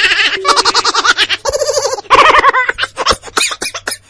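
Laughter: several runs of quick, repeated giggling bursts.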